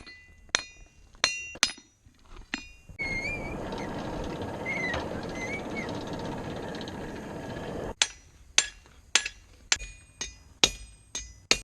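Blacksmith's hammer striking steel on an anvil with a bright ring: a few uneven blows, then a steady rushing hiss for about five seconds, then a quick run of blows about two a second.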